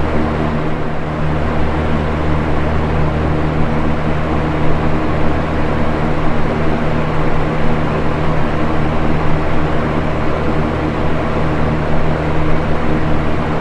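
Box fan running steadily: a constant rush of air over a low motor hum.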